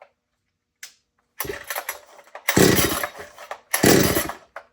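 Chainsaw's recoil starter pulled twice after some handling noise, the engine turning over in a fast pulsing churn without firing, because the stop switch is still off.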